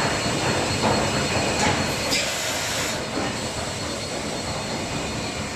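Mazak FH-12800 horizontal machining center running, a steady mechanical rush with thin high whining tones, louder for a couple of seconds near the start, typical of the machine going through its warm-up.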